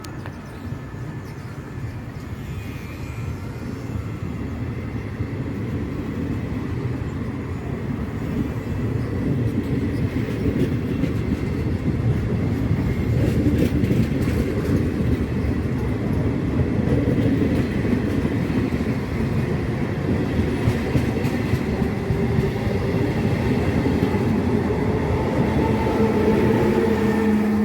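A train running on the tracks, its rumble and wheel clatter on the rails growing louder over the first dozen seconds as it draws near, then holding steady and loud. A steady low hum comes in near the end.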